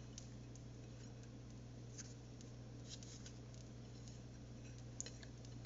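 Faint kitchen handling sounds: a few light clicks and scrapes, one of them about five seconds in, over a steady low hum.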